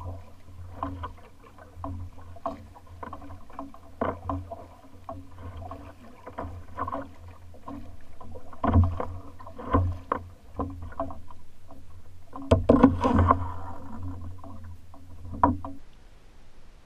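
Knocks, bumps and splashes against a fishing kayak's hull as the catch and gear are handled aboard, irregular, with the loudest cluster of knocks about twelve to thirteen seconds in. A steady low hum runs underneath and stops shortly before the end.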